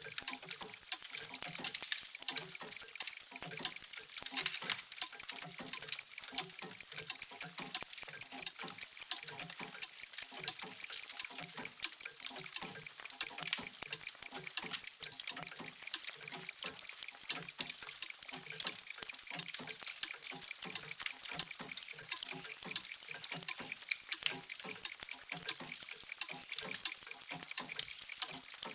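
Many mechanical clocks ticking at once, their ticks overlapping into a dense, steady clatter with no single beat standing out.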